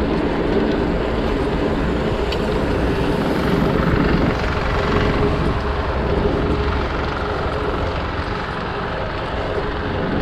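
Dirt jump bike being ridden: a steady mix of tyre rolling noise and wind on the camera microphone.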